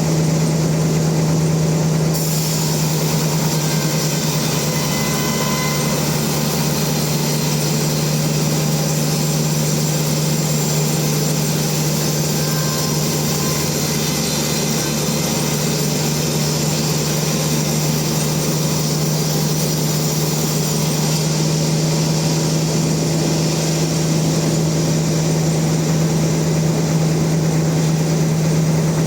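Sawmill machinery running steadily, a constant engine hum underneath. A higher hiss joins about two seconds in and drops away about two-thirds of the way through.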